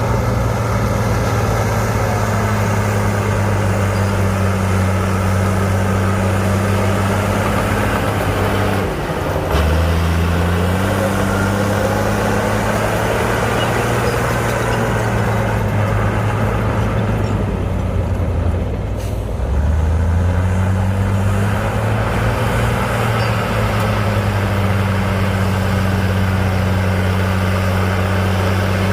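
Heavy earthmoving machine's diesel engine running steadily under load. The engine speed sags briefly about nine seconds in and again around eighteen to twenty seconds, then picks back up.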